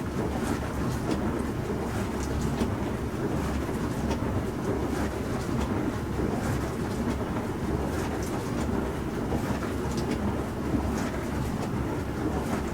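Bosch Serie 4 SMS46MW05G dishwasher running mid-cycle: a steady low rumble with scattered faint clicks.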